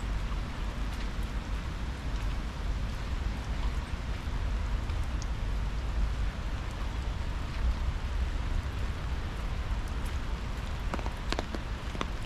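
Steady rain falling, an even hiss over a low rumble. Near the end a quick run of sharp taps comes in.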